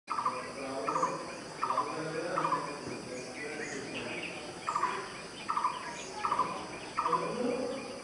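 A bird calling in two bouts of four short, rapid trilled notes, each call about a second apart, with softer, lower bird calls underneath.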